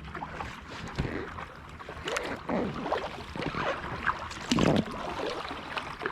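Kayak paddle blades dipping and splashing in the water with irregular strokes and drips. The loudest splash comes about four and a half seconds in.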